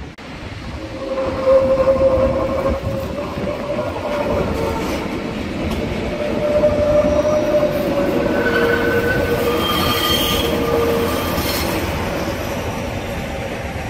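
A Matterhorn Gotthard Bahn metre-gauge electric train running past close by, its wheels and rails giving a steady heavy clatter. Several high squealing tones that shift in pitch run over it, most of all about two-thirds of the way through.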